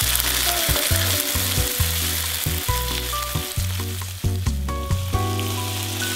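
Tomato sauce and pepper paste sizzling as they fry in a skillet, stirred and scraped with a spatula. A low hum cuts in and out underneath.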